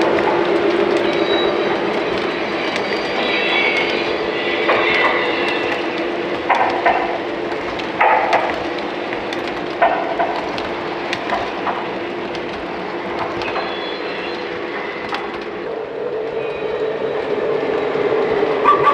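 O gauge model train running on three-rail track: a steady hum of motor and wheels with faint clicking over the rail joints. A few short, higher-pitched sounds come through around the middle.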